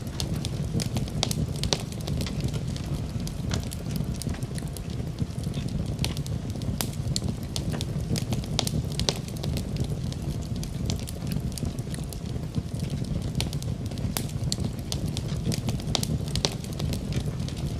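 Wood fire burning in a fireplace: a steady low roar of the flames with frequent sharp crackles and pops scattered throughout.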